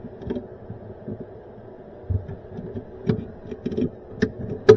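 Scattered soft knocks and light clicks from hands handling wiring in a Sub-Zero freezer, with a couple of sharper clicks near the end.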